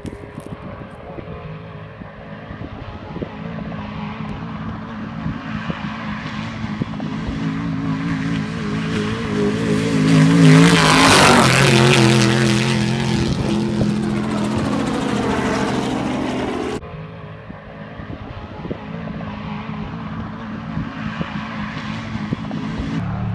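A desert race vehicle's engine approaching at speed, growing loud and passing about ten seconds in, then dropping in pitch as it goes away. It cuts off suddenly a few seconds later, and another engine is heard approaching.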